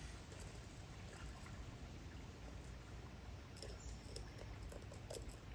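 Faint small metallic clicks and scrapes as a tiny screw and the metering lever are handled and fitted into a chainsaw carburetor, over a low steady background hum. The clicks come mostly in the second half.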